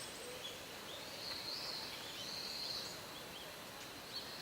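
Faint outdoor background noise with a few light, high-pitched bird chirps.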